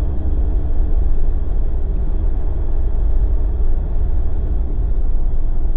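Jeep driving on a snowy road: a steady low rumble of engine and tyre noise with no distinct knocks or changes.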